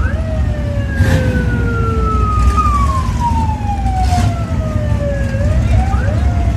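Sirens wailing, two tones at once, each falling slowly over a couple of seconds and then rising again quickly, over the low rumble of idling car engines.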